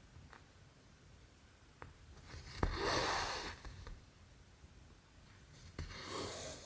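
Cotton embroidery thread being drawn through cross-stitch fabric: two swishing pulls, the first starting with a small sharp click of the needle through the cloth, with a few faint ticks between.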